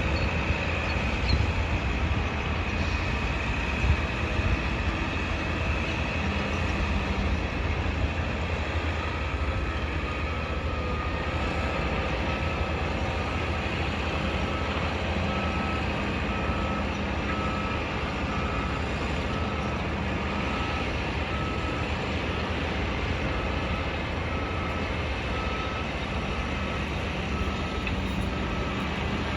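Construction-site noise: a heavy vehicle's engine rumbling steadily, joined about a third of the way in by a reversing alarm beeping at an even pace.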